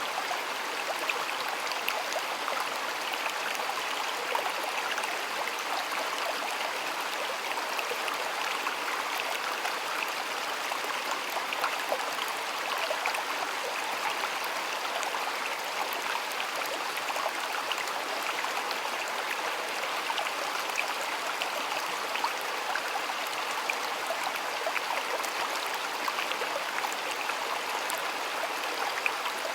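A shallow stream flowing steadily, with small splashes and trickles over stones.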